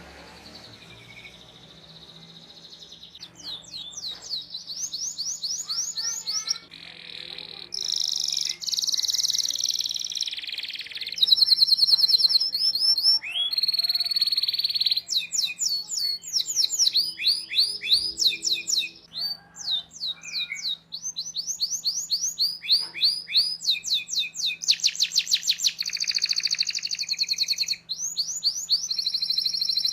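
Domestic canary singing a long, fast rolling song: rapid runs of repeated high 'cuit cuit' chirps and trills, switching between phrases every second or two, coming in strongly about three seconds in.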